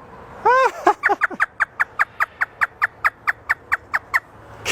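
African grey parrot imitating a hysterical laugh: one rising-and-falling call, then a rapid, even string of short clipped notes, about six a second, for some three seconds.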